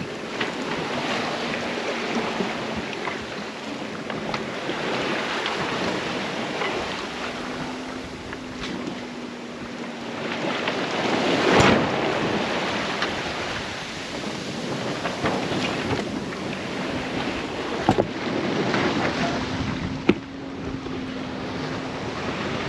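Sailboat under way at sea: water rushing along the hull and waves washing past, with wind on the microphone. A louder surge of rushing water comes about halfway through, and a few sharp knocks are heard near the end.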